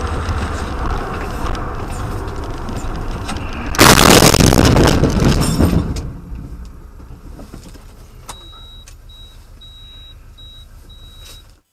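Car driving with steady road and engine noise, then a sudden loud collision about four seconds in, a crash and crunch that dies away over about two seconds. Afterwards a series of short high beeps repeats at even intervals.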